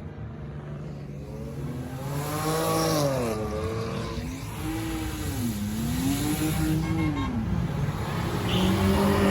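Car engine idling, then revved several times, its pitch rising and falling in about four smooth swells from about two seconds in.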